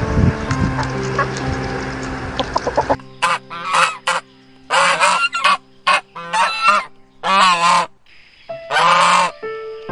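A bird giving about eight short, harsh calls one after another, starting about three seconds in, over background music with held tones. Before the calls, the tail of a busier music-and-animal mix.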